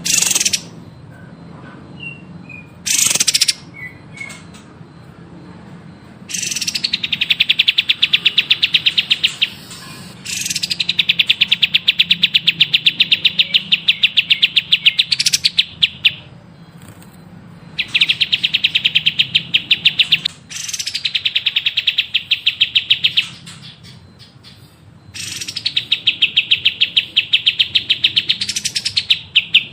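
Songbird singing: a couple of short sharp calls at the start, then four long, rapid trills of evenly repeated notes, each lasting several seconds.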